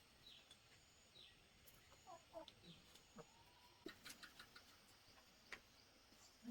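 Faint, scattered high-pitched cheeps and squeaks from small young animals, each a short falling chirp, with a few soft clicks between them.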